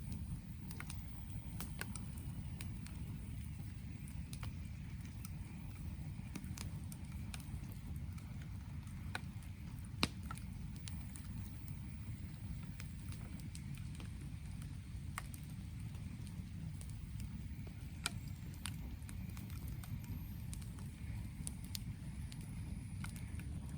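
Wood campfire crackling: irregular sharp pops and snaps over a steady low rumble, with a louder snap about ten seconds in and another about eighteen seconds in.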